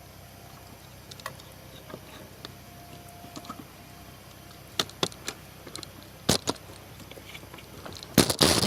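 Scattered sharp clicks and crackles at irregular intervals, with a louder crackling burst near the end.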